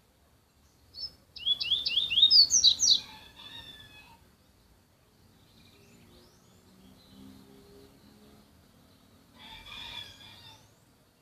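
Papa-capim, a small Sporophila seedeater, singing the fogueira song: a loud phrase of quick rising notes about a second in, lasting some three seconds, then a softer phrase near the end.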